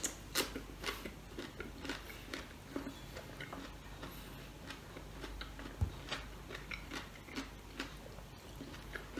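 A person chewing close to the microphone: a run of small mouth clicks and crunches from biting into dry-fried pork adobo. One dull thump about six seconds in.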